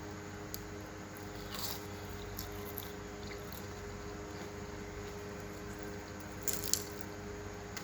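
Crisp fried samosa pastry crunching a few times, with the loudest crunches near the end, over a steady low hum.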